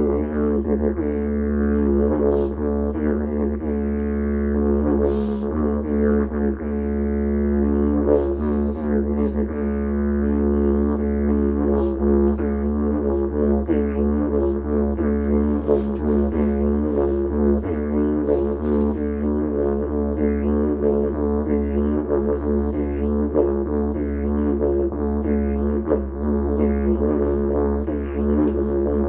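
Didgeridoo played as one continuous low drone, its overtones sweeping and wobbling constantly, with short hissy sounds now and then.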